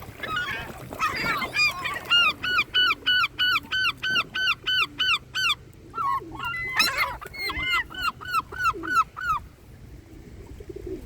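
Gull calling in a long run of repeated down-slurred notes, about three a second, then a second run after a short break, with a louder, harsher cry near the middle.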